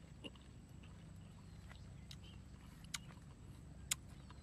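Crisp green guava being chewed, a few short sharp crunches over a low steady background rumble; the loudest crunch comes near the end.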